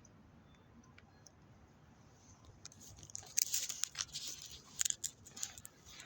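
Faint room tone, then from about two and a half seconds in a run of irregular crackling, rustling noises, like something crinkling or rubbing close to the microphone.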